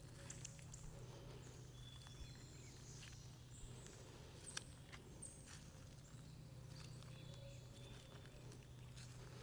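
Faint forest ambience: scattered small clicks and crackles, with brief high chirps now and then over a low steady hum.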